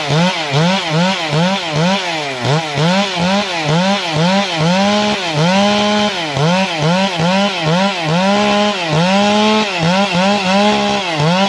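Two-stroke chainsaw running hard, cutting wood. Its engine pitch falls and recovers over and over, about two to three times a second, with a couple of longer steady high stretches about five and nine seconds in.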